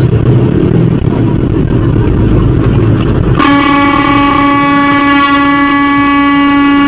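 Low rumble of a vehicle engine and road noise, then about halfway through a vehicle horn starts a long, steady blast that keeps sounding.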